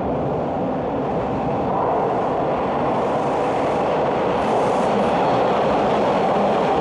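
Toronto subway train rolling into the station on the opposite track, a steady loud rumble of wheels on rail that grows slightly louder.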